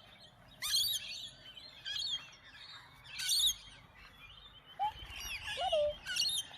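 Small birds chirping in about five short bursts of quick, high twittering notes, a second or so apart.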